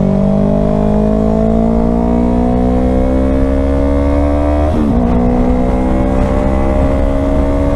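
Yamaha R3 parallel-twin motorcycle engine pulling under acceleration, its note climbing steadily. It shifts up once about two-thirds of the way through and climbs again. Heavy wind rumble on the helmet microphone lies underneath.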